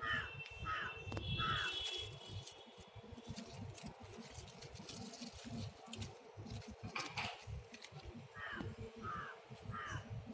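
Crow cawing: three short caws about two-thirds of a second apart at the start, then another three near the end.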